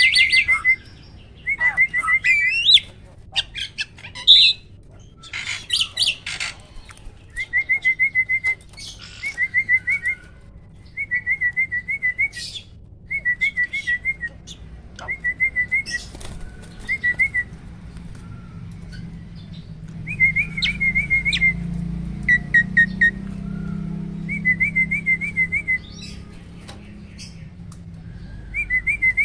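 Hybrid starling, a cross of Asian pied starling and black-winged starling, singing: a rolling trill repeated over and over at the same pitch, each phrase about a second long, with harsh chattering calls mixed in during the first few seconds.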